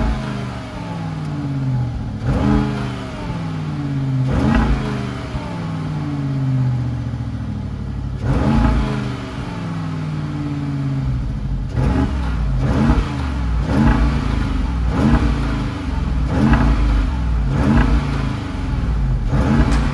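Car engine accelerating hard, its revs climbing and falling over and over. Each fall comes with a short sharp sound, as at a gear change. The changes come quicker in the second half.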